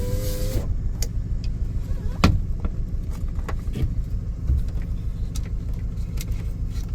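Ford F-150 pickup engine idling with a steady low rumble. A whine at the very start cuts off about half a second in, and a single sharp knock comes a little over two seconds in.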